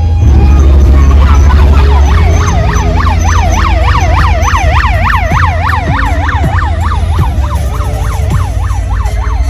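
An electronic siren effect played loud through a large sound system: a tone warbling quickly up and down, about three sweeps a second, starting about a second in, over a heavy, steady deep bass.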